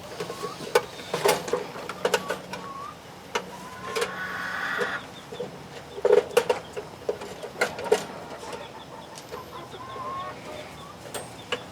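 Chickens clucking, with one longer call about four seconds in, over scattered sharp clicks and rattles of a cage door and latch being worked.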